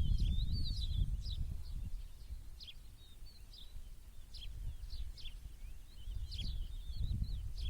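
Small birds chirping and twittering in short, repeated calls, over a low, uneven rumble that is louder at the start and again near the end.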